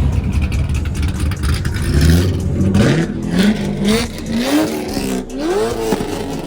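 Car engine revving in a string of quick rising sweeps, each climbing and dropping back, about five or six in all. A deep engine rumble runs under the first half.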